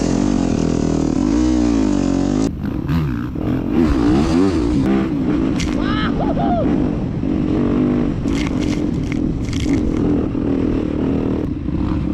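Off-road dirt bike engine running and revving, its pitch swinging up and down repeatedly in the first half, then holding steadier.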